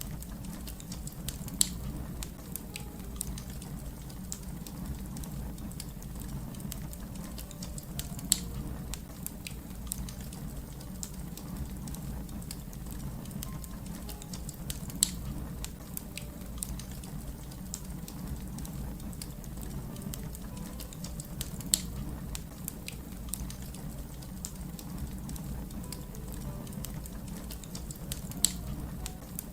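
Fire crackling: a steady low rumble with many small crackles, and a louder pop about every six to seven seconds.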